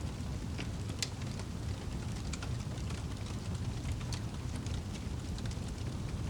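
Wood fire crackling in a fireplace: irregular sharp pops and snaps, the loudest about a second in, over a low steady rumble of the burning fire.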